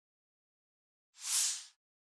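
A single short whoosh: a hiss that swells and fades within about half a second, in otherwise dead silence, typical of an editing transition sound effect.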